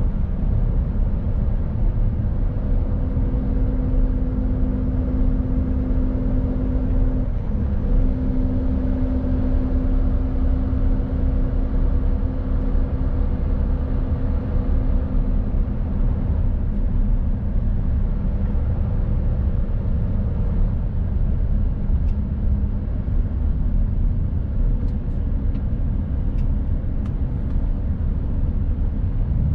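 Mercedes-Benz Actros truck's diesel engine running steadily under way, with low road rumble. The engine's hum breaks briefly about seven seconds in.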